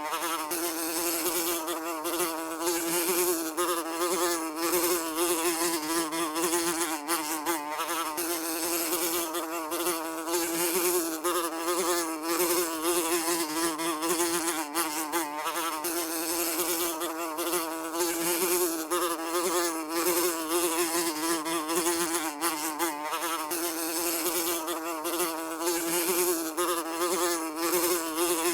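Housefly buzzing continuously, a steady wing drone with a wavering pitch.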